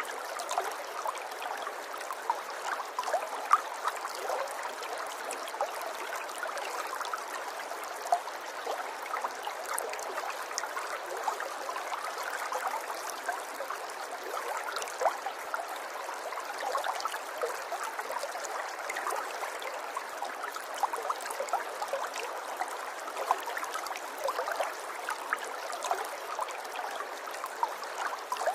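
River water running over stones in a steady babble, full of small splashes and gurgles, with no deep rumble.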